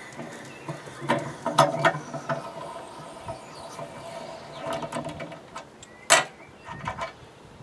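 Hand tools clicking and knocking against the metal of a cast iron workbench as it is worked on, a few scattered sharp clicks with one louder knock about six seconds in.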